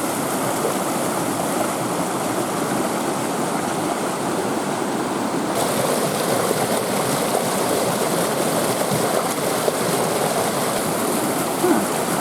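Steady rush of water from a creek and waterfall (Gilmer Falls), which gets a little hissier about halfway through.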